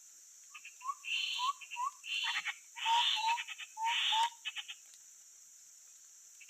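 Grey-headed babbler calls: a run of short whistled notes mixed with harsh, rasping chatter, lasting about four seconds and then stopping.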